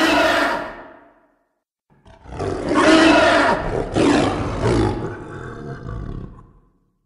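Cave troll roars, a film creature sound effect: a cry fading away at the start, then after a second of silence one long, loud roar of about five seconds that swells and trails off.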